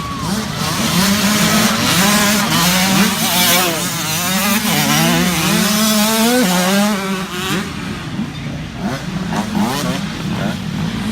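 Several small youth dirt bike engines revving on a motocross track, their pitches climbing and dropping as the riders work the throttle and shift. The overlapping engines are loudest in the first seven seconds and ease off a little after that.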